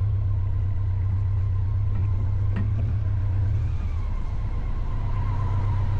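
Steady low engine rumble, with a faint steady whine coming in about four seconds in and a single brief click near the middle.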